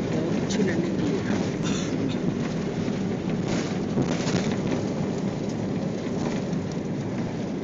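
Steady rumbling cabin noise of an Airbus airliner during landing, with a few faint rattles.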